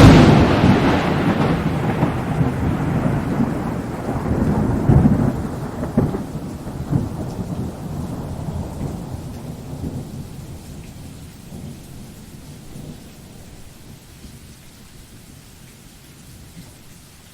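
A sudden loud thunderclap right at the start, followed by long rolling thunder with a couple of further cracks a few seconds in, slowly dying away into steady rain.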